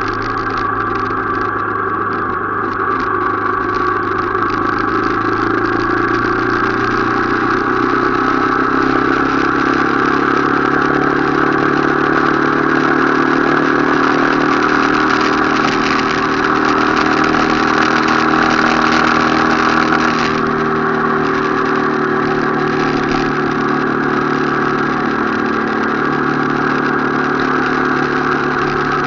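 Motorcycle engine running while under way, with a steady hiss over it. Its pitch climbs slowly, then drops suddenly about twenty seconds in.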